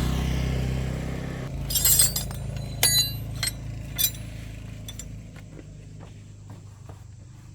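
An engine fades away in the first second and a half. It is followed by four or five sharp metallic clinks over about two seconds, then a few faint taps.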